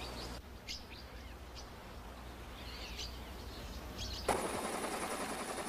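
Birds chirping in short, scattered calls over faint outdoor background noise. A little past four seconds the background changes abruptly to a louder hiss with a steady high whine.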